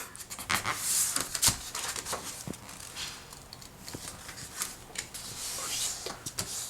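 A sheet of paper being folded and creased, rustling with many short, crisp crackles.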